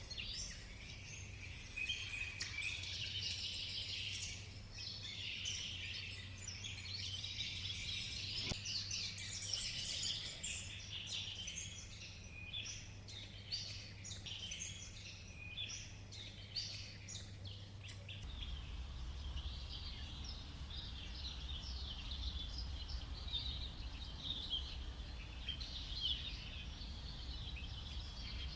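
Tropical forest ambience: a dense chorus of many overlapping bird chirps and calls over a low steady rumble. About two-thirds of the way in, the chorus thins and the low background shifts, as at a change of recording.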